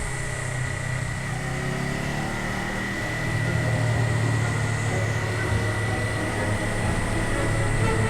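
Honda CBR400R parallel-twin motorcycle engine running steadily under way, with road noise and a steady high whine. The engine grows a little louder about three seconds in.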